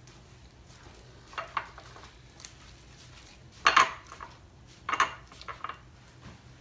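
Homemade slime being worked in a mixing bowl: a handful of short scraping, clattering sounds against the bowl, the loudest a little past halfway.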